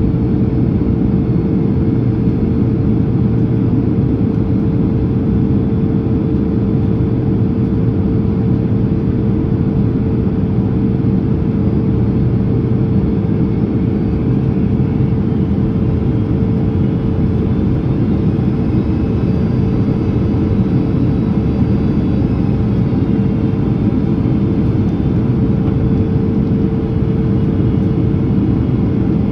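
Steady cabin noise inside a Boeing 767-300ER on approach with its slats extended: the airliner's engine and airflow rumble, with a constant hum running through it.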